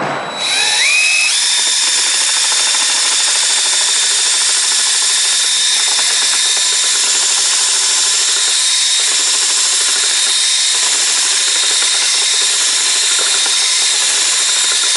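An electric power tool's motor spins up, its pitch rising over the first second or so, then runs steadily at full speed.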